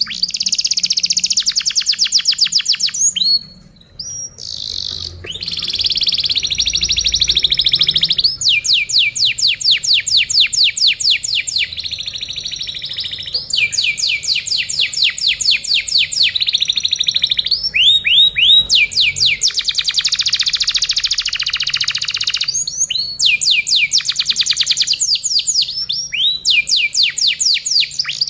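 Canary singing a long song of rapid rolling trills and fast repeated notes, with a short break about four seconds in.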